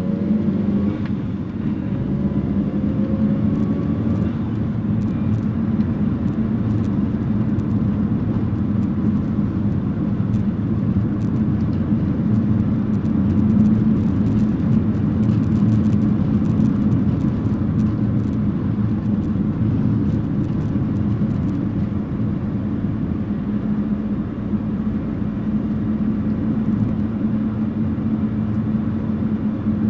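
Nissan N12's 1.5-litre E15S carburetted four-cylinder engine running steadily, its pitch rising briefly in the first few seconds.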